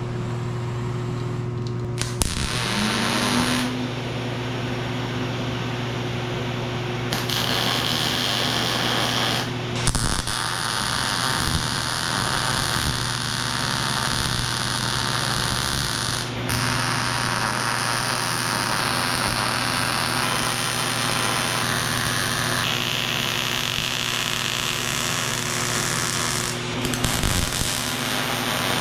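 Arc welding angle iron in place: a steady crackling arc that runs in long beads, with brief stops about 10 and 16 seconds in, over a constant low engine hum.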